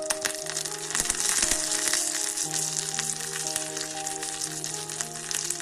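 Egg-and-bread pizza base frying in a pan, sizzling steadily with fine crackling.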